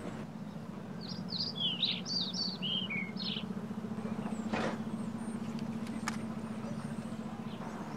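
A bird giving a quick run of short, high, falling chirps for a couple of seconds, over a steady low outdoor hum. A brief rustle comes near the middle, and a faint click follows.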